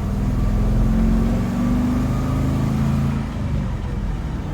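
2008 GMC bucket truck's 8.1-liter gasoline V8 running steadily. Its pitch rises slightly over the first couple of seconds, then eases off about three seconds in.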